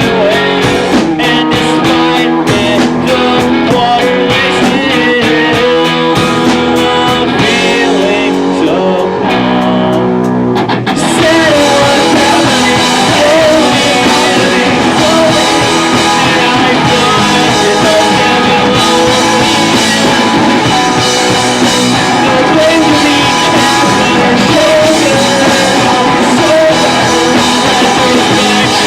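Live rock band playing, with electric guitar, drums and singing. About 11 seconds in, the band comes in fuller and denser, with a voice singing over it.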